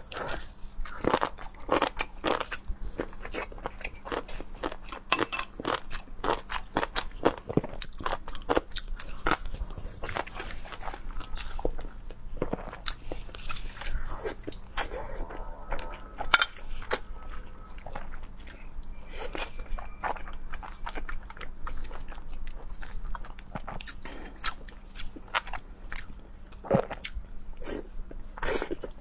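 Close-miked eating: crunching pickled cucumber and chewing braised pork belly, a dense run of small sharp crunches and wet chewing clicks.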